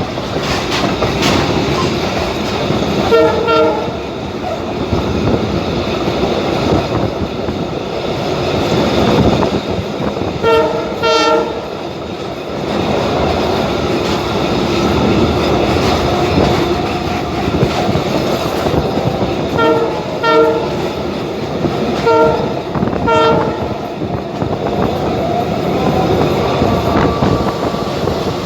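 Passenger train running along the track with a steady rumble and rattle, while the train's horn sounds short blasts several times, mostly in pairs.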